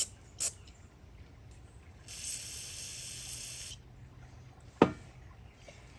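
A burst of spray hissing for about a second and a half as a chainsaw carburetor part is sprayed clean. A few light clicks come before it, and one sharp click follows about a second later.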